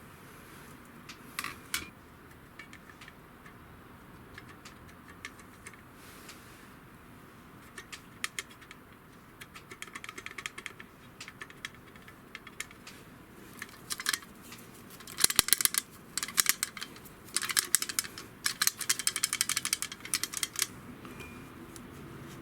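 Small hard metal parts being handled, scattered sharp clicks at first, then bursts of fast clicking and rattling in the second half.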